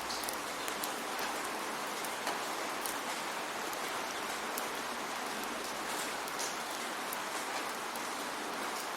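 Steady rainfall, a continuous even hiss with scattered individual drops ticking on a surface.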